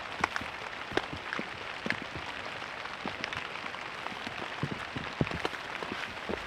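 Steady rain falling, with individual heavy drops ticking irregularly on a nearby surface.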